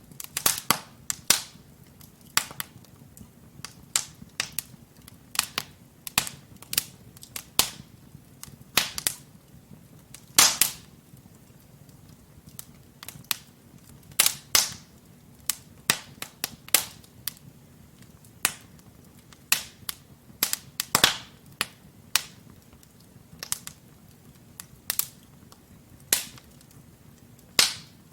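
Wood fire crackling as logs burn in a fireplace: irregular sharp pops and snaps, a few every couple of seconds, with louder pops about ten, fourteen and twenty-one seconds in, over a faint low hum.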